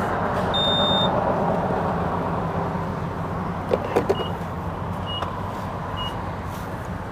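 Yamaha XJ550 Maxim's inline-four engine running at low speed, swelling about a second in and then easing off. A few clicks come about four seconds in, followed by three short electronic beeps about a second apart.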